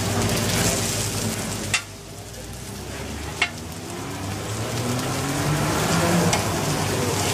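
Fish fillets sizzling in oil on a hot flat griddle, with two sharp clicks about a second and a half apart. The sizzle drops quieter after the first click and builds back up.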